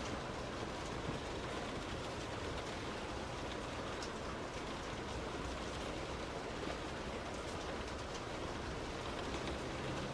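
Steady noise of a car driving in heavy rain: rain and tyre spray on a wet road over the car's running noise, with a few faint ticks of drops.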